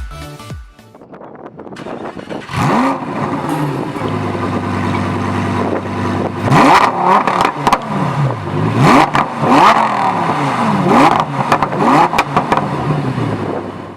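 Lamborghini Huracán EVO RWD's naturally aspirated 5.2-litre V10 being revved, about six blips whose pitch climbs and falls back, with the engine running steadily between them.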